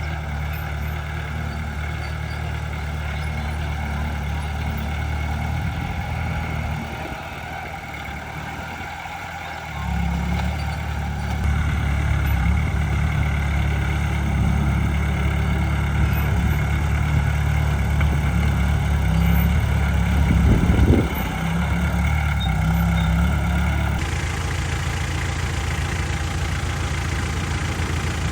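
Heavy diesel earthmoving machinery running steadily. The engine eases off for a few seconds, then comes back up under load about ten seconds in, with a brief surge near twenty-one seconds.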